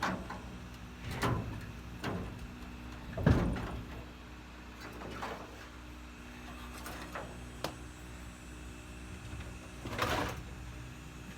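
Several short scrapes and knocks, irregularly spaced, the loudest about three seconds in and another strong one near the end, over a steady low hum.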